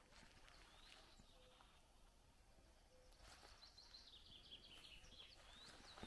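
Faint bird calls over a near-silent bog: one rising chirp about a second in, a run of quick chirps from about three to five seconds in, and another rising chirp near the end.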